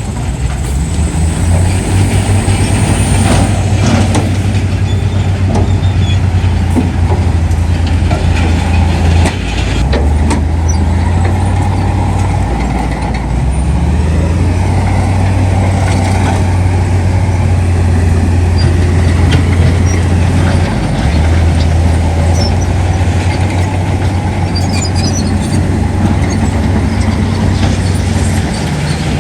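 Heavy diesel construction machinery working: a loud, low engine drone that shifts in pitch a few times, with scattered clanks.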